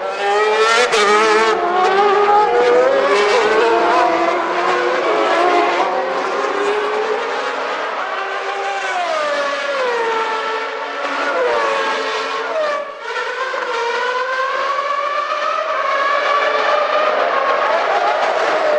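Several 1991 Formula One cars with naturally aspirated 3.5-litre engines running at high revs at once, their overlapping engine notes rising through the gears and falling again. The sound dips briefly about two-thirds of the way through.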